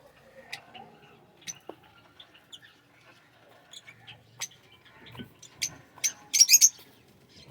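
Aviary birds calling with short, high chirps scattered throughout, then a quick cluster of louder chirps about six seconds in.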